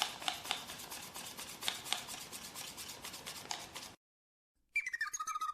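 Sheet of origami paper being folded and creased by hand: crisp rustles and sharp little clicks that stop about four seconds in. After a short silence, music starts near the end.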